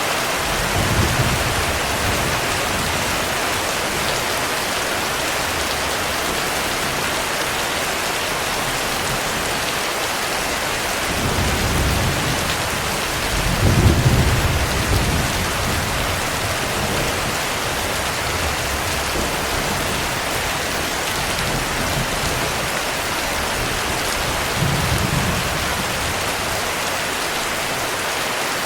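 Heavy rain falling steadily, with low rolls of thunder: a short one about a second in, a longer, louder roll about halfway, and another short one near the end.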